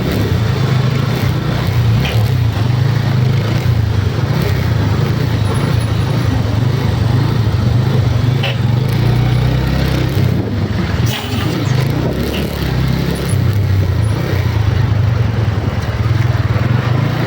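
Motor vehicle running steadily with a loud low drone and road noise, dipping briefly about eleven seconds in.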